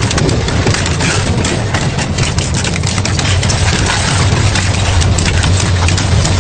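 Industrial double-shaft shredder running with a steady low motor drone, broken by frequent sharp cracks and snaps as material is torn apart between the shafts.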